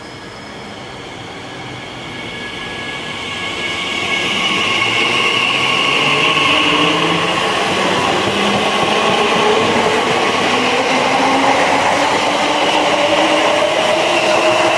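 A train grows louder over the first four seconds or so, then runs loud, with a whine of several tones that climbs steadily in pitch.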